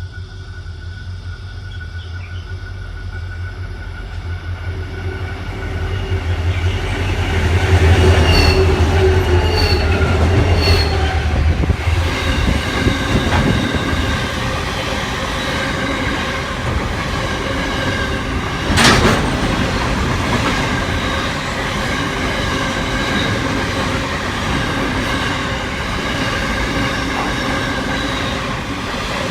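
Train running past a station platform, getting louder over the first eight seconds with a deep hum, then wheels rumbling and squealing on the rails. A single sharp clack comes about two-thirds of the way through.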